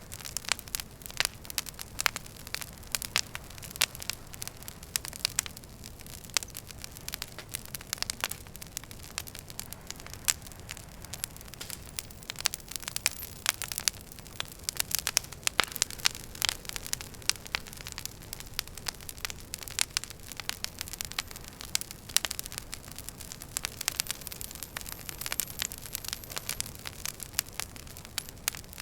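Wood fire in a fireplace crackling: frequent irregular sharp pops and snaps over a steady low hiss of burning logs.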